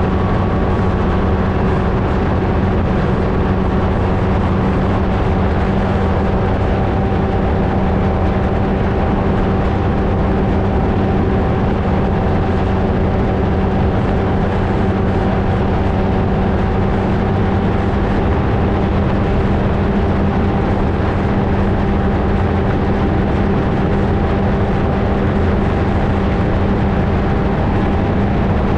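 Flightstar II ultralight's engine and propeller running steadily at a constant pitch, heard from a camera mounted on the aircraft.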